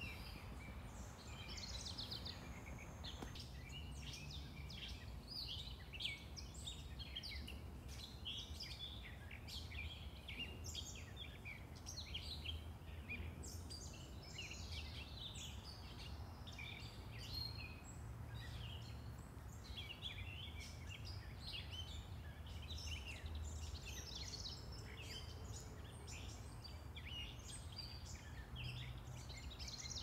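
Yard birds calling and chirping, many short calls overlapping without a break, over a low steady rumble of background traffic.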